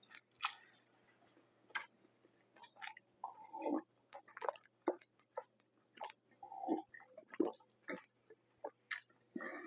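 Close-up mouth sounds of chewing and biting pizza: irregular wet smacks and crisp crunchy clicks.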